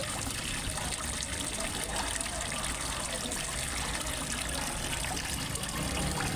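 Water trickling and splashing steadily into a fish pond from a small waterfall.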